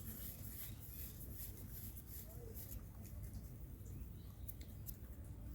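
Rabbits nibbling and chewing grass: faint, irregular crisp snips and clicks over a low steady rumble.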